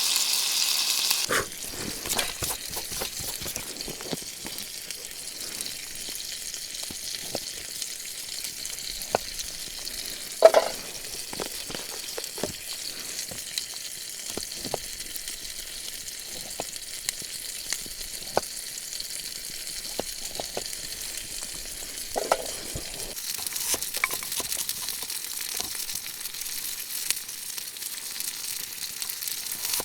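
Food sizzling in a pan over a campfire. The hiss is strongest at the start, falls away about a second in and swells again near the end, with many small pops and crackles throughout.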